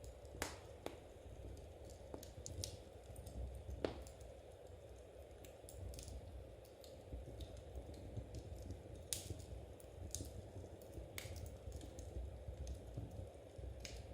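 Faint wood fire crackling, with irregular sharp pops over a steady low rumble, mixed with the soft clicking of knitting needles.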